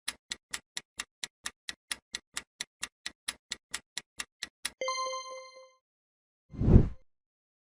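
Countdown timer sound effect ticking quickly, about five ticks a second, that ends in a ringing chime just under five seconds in. About a second and a half later comes a short low whoosh.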